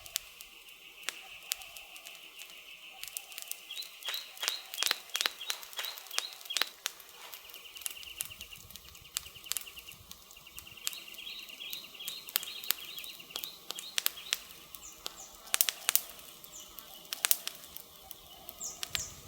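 Wood campfire crackling, with irregular sharp pops of burning wood and a cluster of louder snaps past the middle. A bird chirps in quick repeated high notes in two runs, one early and one in the middle.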